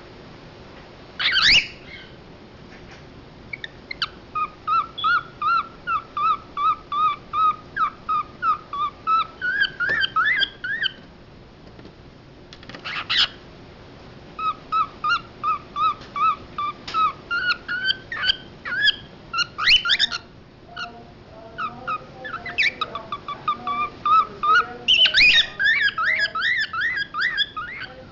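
Male cockatiel singing: long runs of short, quick whistled chirps, about two to three a second, broken by a few loud shrill calls.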